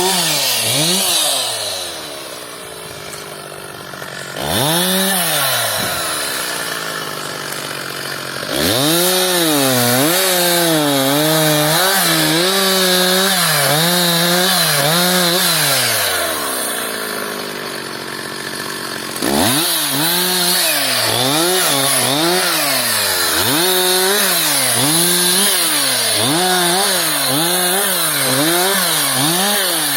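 Petrol chainsaw running at high revs in repeated throttle bursts, its pitch dipping and climbing again and again as it cuts wood. It drops back to idle three times before revving up again.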